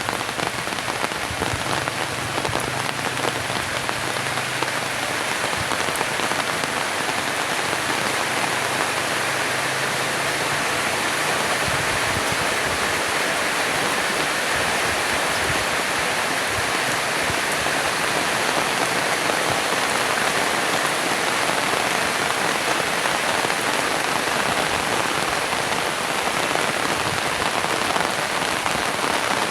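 Heavy rain pouring down steadily, a dense, even hiss of drops striking surfaces.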